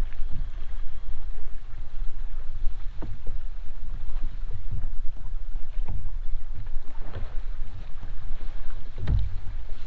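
Wind buffeting the microphone aboard a fishing kayak, a steady low rumble, with irregular knocks and slaps from the kayak on choppy water, the loudest about nine seconds in.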